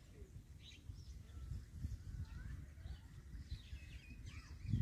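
Faint, scattered bird chirps and calls over a low, steady rumble.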